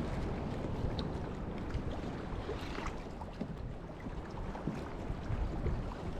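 Wind buffeting the microphone over the wash of open sea water around a fishing kayak, a steady rumbling hiss with no distinct events.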